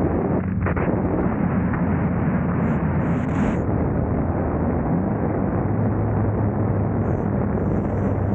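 2000 Honda Civic's D-series four-cylinder engine running steadily while driving, mixed with road and wind noise, with a short dip in the sound about half a second in.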